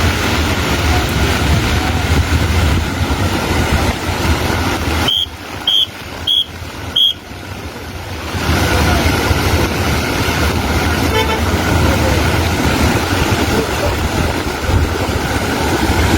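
Steady outdoor traffic noise. About five seconds in it drops away for roughly three seconds, while four short high beeps sound about half a second apart.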